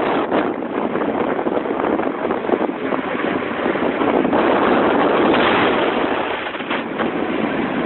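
Car driving in the rain: a steady rushing hiss of rain and tyres on a wet road, heard from inside the car.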